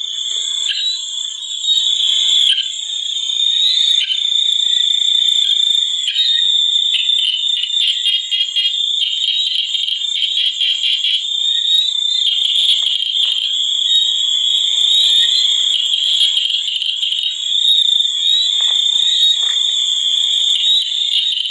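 Steady, high-pitched chorus of calling insects, a continuous shrill trill that pulses more quickly for a few seconds midway.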